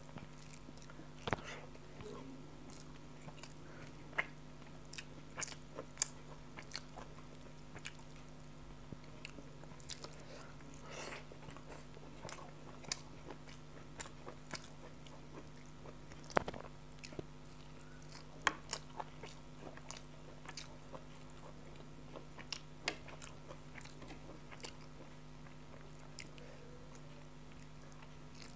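Close-miked eating sounds from a person eating rice and chicken curry by hand: chewing and wet mouth smacks, with scattered sharp clicks. A steady low hum runs underneath.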